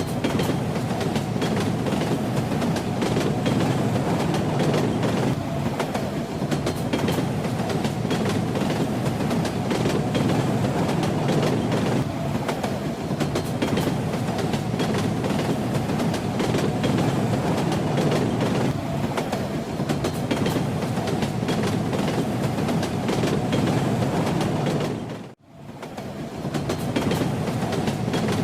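Train running on the rails: a steady rumble with a constant clatter of the wheels over the track (clickety-clack). About 25 seconds in the sound drops out for an instant and swells back.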